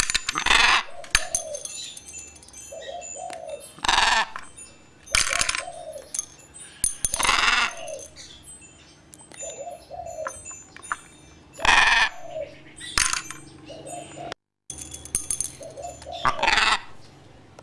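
Birds calling: about seven loud, harsh screeching calls, each under a second, spaced one to four seconds apart, over soft cooing of doves repeating every few seconds.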